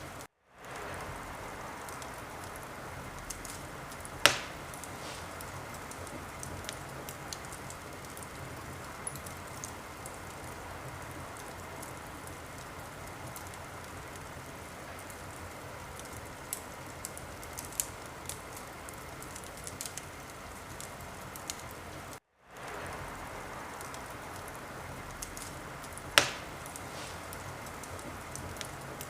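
Wood fire in a fireplace burning with a steady hiss and scattered small crackles, and two loud pops, about four seconds in and near the end. The sound drops out for a moment right at the start and again about 22 seconds in, fading back up each time.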